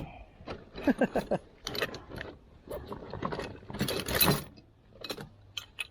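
Hand wrenches working bolts on a Detroit Diesel engine: irregular metal clicks and clinks, busiest about four seconds in.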